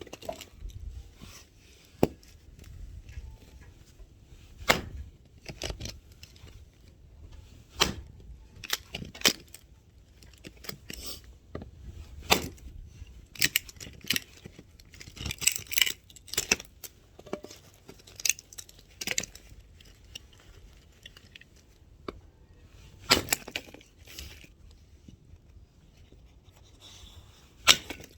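Axe chopping and splitting firewood: sharp single strikes every few seconds, with smaller knocks and clatter of wood between them.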